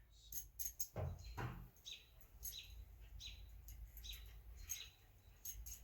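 Faint bird chirps, short and repeated, with two soft knocks about a second in.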